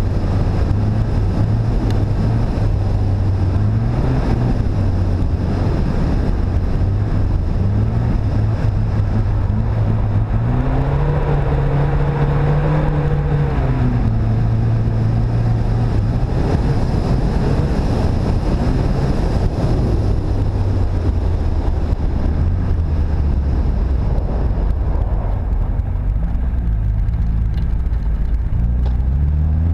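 Car engine pulling steadily as the car drives on a snowy road, under a steady rush of road and wind noise. The engine note climbs about ten seconds in, holds higher for several seconds, then drops back, and sinks lower near the end.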